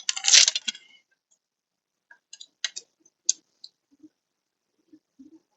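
Handling noise from a car door speaker and its mounting parts: a short scraping rustle in the first second, then scattered light plastic clicks and a few soft knocks.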